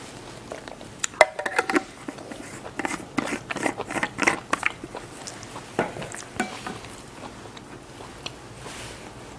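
Close-miked chewing of a Vietnamese fresh spring roll in rice paper: a cluster of wet mouth clicks and smacks for a few seconds, then a few scattered fainter ones.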